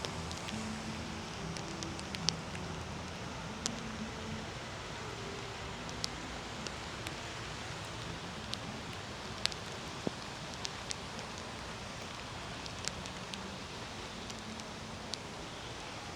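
Steady rain falling, with scattered sharp drops striking hard surfaces close by.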